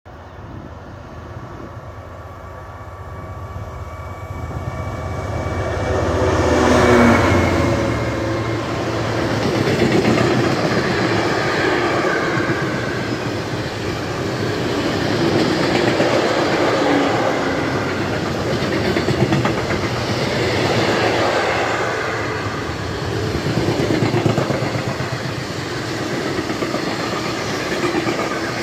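An EMD Class 66 diesel-electric locomotive (JT42CWR, two-stroke V12 engine) approaches and passes, its engine drone building to its loudest about seven seconds in. It is followed by a long train of container and tank-container wagons rolling by, with a steady wheel rumble that swells and eases as the wagons pass.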